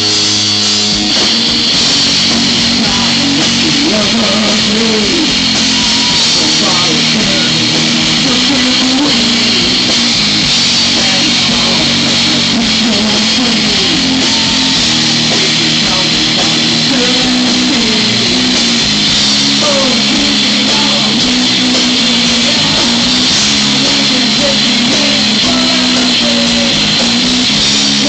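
Live rock band playing a song, with the electric guitar prominent over bass, loud and even throughout.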